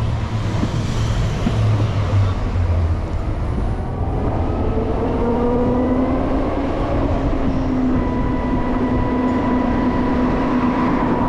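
LiveWire electric motorcycle motor whining, the pitch rising as the bike accelerates about four seconds in and then holding steady, over wind and road noise.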